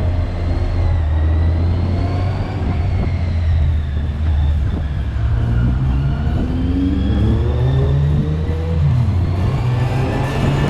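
Yamaha Fazer motorcycle engine running steadily at road speed while riding, then revving up as it accelerates from about six seconds in, its pitch rising for a few seconds before settling.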